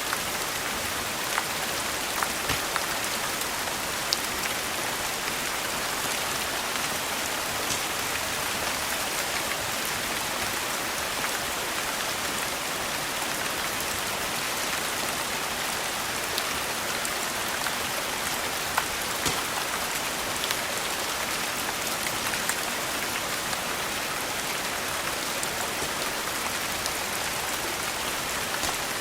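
Steady rain falling on a surface, a dense even patter, with scattered sharp clicks and ticks through it.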